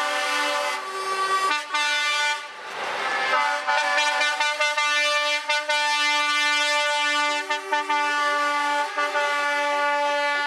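Truck air horns blowing a loud multi-note chord, held for long blasts with a couple of short breaks and some stuttering toots near the end.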